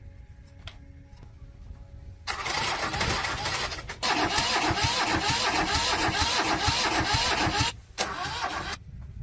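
An engine being cranked by its electric starter, with a rhythmic chug of about four pulses a second. It stops abruptly, then cranks again briefly near the end without catching.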